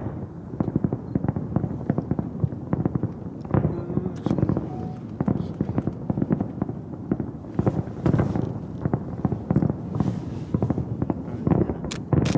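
Aerial fireworks display going off in rapid, overlapping succession: a continuous barrage of booms and crackling bangs, many shells fired at once.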